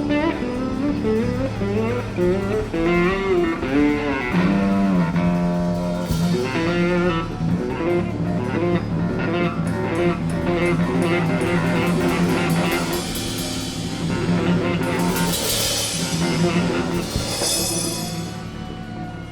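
Live band music: electric guitar playing a gliding, bending melodic line over bass and drums, with cymbal washes a little before the end.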